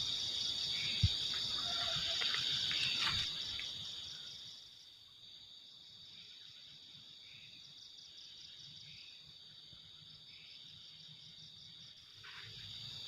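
Crickets trilling in a steady, high, fast-pulsing chorus, with a few faint knocks in the first three seconds. The sound is louder for the first four seconds, then quieter until near the end.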